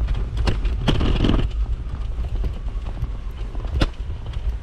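Footsteps crunching and scuffing on snowy pavement, with a few sharp knocks, over a steady low rumble.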